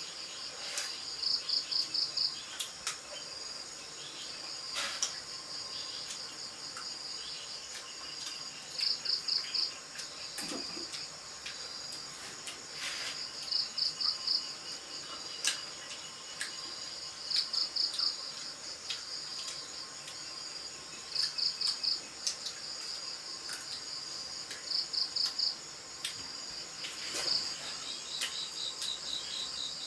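Crickets chirping: a steady high trill with short bursts of rapid pulses repeated every two to four seconds, and a few faint clicks.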